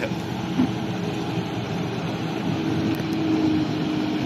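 Heavy diesel truck engine running steadily under load, a constant rumble with a steady hum.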